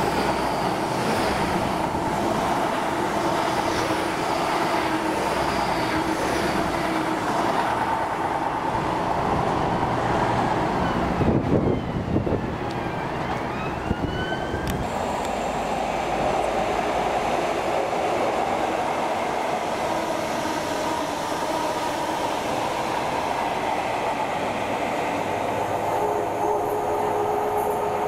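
Diesel train running on the line, a steady engine and rail rumble that lasts for many seconds, with a few short rising squeals about halfway through.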